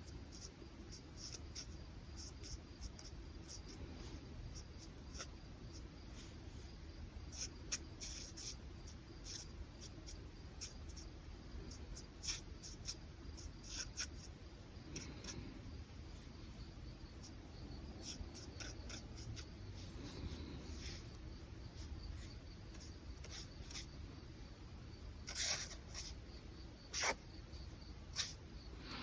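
Brush pen drawing on paper: many short, soft strokes and taps, with a few louder ones near the end, over a low steady hum.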